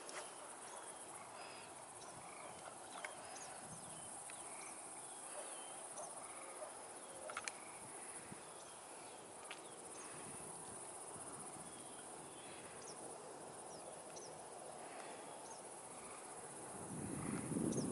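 Steady high buzzing of insects, with scattered light clicks and ticks; a short low rush near the end.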